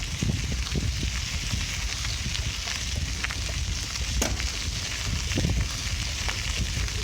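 Bicycle riding noise: a steady crackling hiss of tyres rolling and wind, over a low rumble, with scattered small clicks and rattles.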